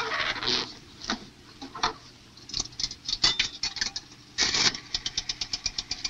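A noisy rustle and knock at the start, then scattered clicks and knocks as a rotary-dial wall pay phone is handled. Near the end the dial is wound round and clicks back in an even run of about ten clicks a second.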